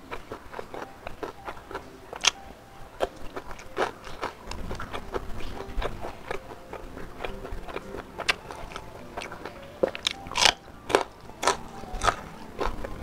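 Close-up mouth sounds of a person chewing a mouthful of spicy smoked beef and rice: wet smacks and small crunches at irregular intervals, with a cluster of louder ones about three-quarters of the way through.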